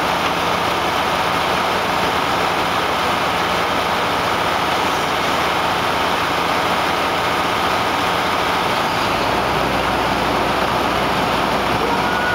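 Hydraulic pump hooked to a fire hydrant, running steadily while it flushes out a clogged storm drain. A deeper low rumble joins in about nine seconds in.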